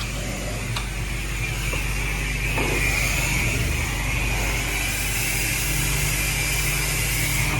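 High-pressure car wash wand spraying water, a steady high whine with hiss that grows louder about five seconds in, over a low steady hum.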